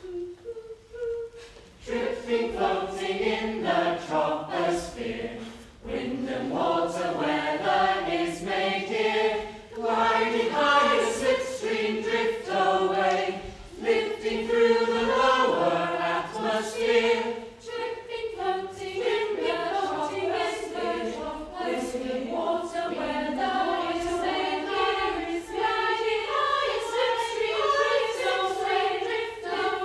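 A choir singing in harmony, coming in about two seconds in after a single held note.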